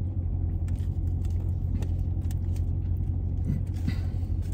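A parked Dodge Scat Pack's V8 engine idling, a steady low hum heard inside the cabin. Faint clicks and rustles of plates and food being handled.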